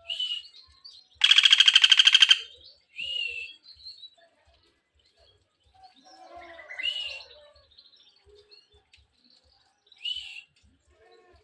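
A pelatuk bawang calling: short, high chirps, and about a second in a loud, rapid, rattling trill lasting just over a second.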